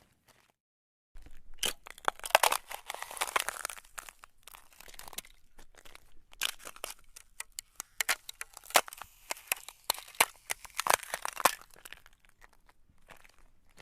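Ice cracking and crunching, starting about a second in: dense, irregular runs of sharp cracks and crackles that come in clusters, with a few louder snaps among them.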